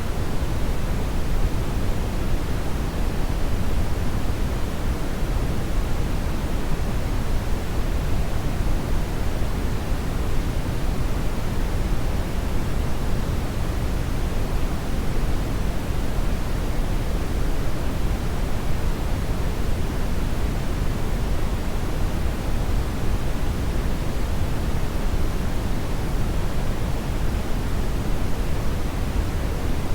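Hair dryer blowing steadily: an even, unbroken rushing noise, heaviest in the low end, with no change in pitch or level.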